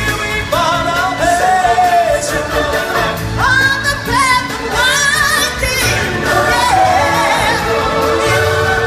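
Stage-show music: singers carry a melody over a choir and band accompaniment, with a wavering held note about halfway through.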